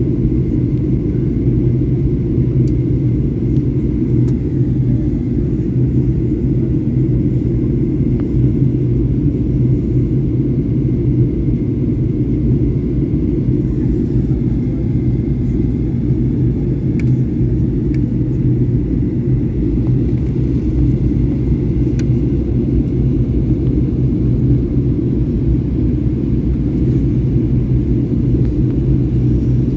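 Steady cabin noise of a Boeing 737-800 airliner in flight: an even low rumble of engines and airflow, with a few faint clicks.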